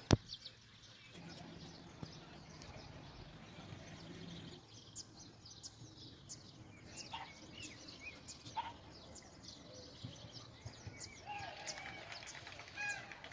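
Small birds chirping and twittering, many short high calls throughout and a few lower, curving calls near the end. A sharp click right at the start is the loudest moment, and a low hum fades out after a few seconds.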